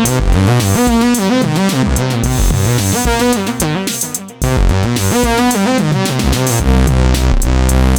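Behringer K-2 analog synthesizer, an MS-20 clone, playing a sequenced bass line with its resonant filter sweeping the tone up and down. The pattern drops out briefly about four seconds in, then resumes and changes to a steady, sustained low bass note near the end.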